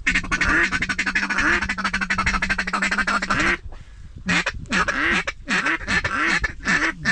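Mallard duck calls blown by hunters. A rapid feeding chatter runs for about three and a half seconds, then after a short break comes a string of separate quacks, calling to ducks that are circling overhead.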